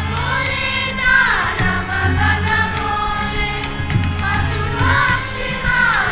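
Voices singing a chant-like devotional melody over instrumental music with a steady low drone.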